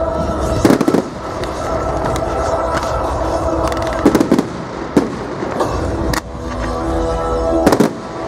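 Fireworks bursting in the sky: several sharp bangs with crackling, in clusters about a second in, around four to five seconds, and near the end. Music plays steadily underneath.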